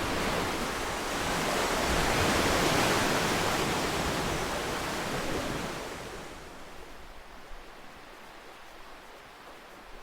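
Ocean surf: a wave breaks and its wash swells over the first few seconds, then fades away after about six seconds to a quieter hiss.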